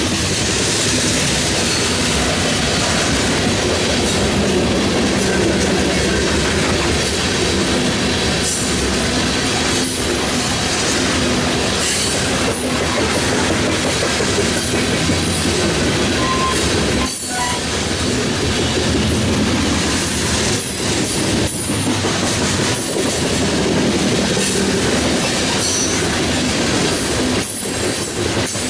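BNSF grain train's freight cars rolling past, a steady rumble and hiss of steel wheels on rail, with irregular clicks as wheels cross rail joints.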